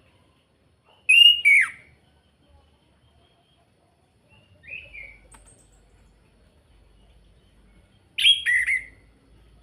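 Chestnut-capped thrush (anis kembang) singing: three short whistled phrases a few seconds apart, each a quick note falling in pitch, the middle one fainter.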